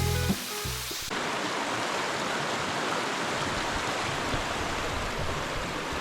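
Background music stops just after the start; then a river's rushing water runs steadily.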